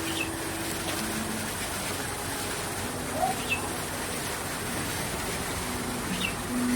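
Outdoor garden ambience: a steady rushing noise with a faint low hum, and a few short bird chirps scattered through it.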